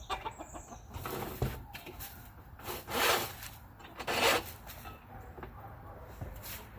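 A Superwinch ATV 2000 winch being worked out of its mount on an ATV: metal scraping and rubbing, with two louder scrapes near the middle and smaller rubs and knocks around them.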